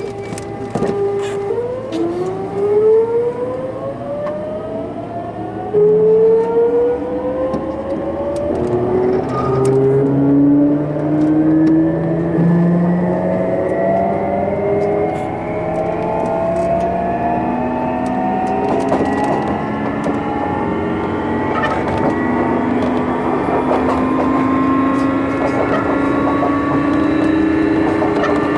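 Hitachi GTO-thyristor VVVF inverter and traction motors of a Sotetsu New 7000 series electric train accelerating from a stop: several whining tones climb steadily in pitch, jumping to new patterns a few times as the inverter changes modes. The car (MoHa 7357) is one whose sound in synchronous mode differs subtly from the other cars.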